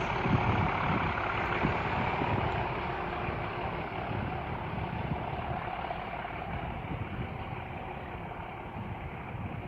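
Class 37 diesel locomotive's English Electric V12 engine working as the light engine pulls away. The sound rises at the start, then fades gradually as the locomotive heads off into the distance.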